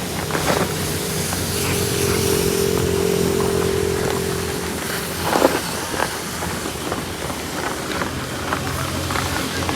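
A motor running steadily with a low hum. A higher steady whine rides over it for the first five seconds or so, then stops with a knock. Scattered clicks and knocks come throughout.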